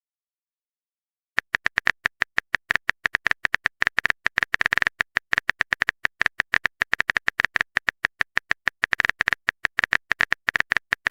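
Phone keyboard typing clicks: a fast, irregular run of short taps, each with the same bright tick, starting about a second and a half in after silence.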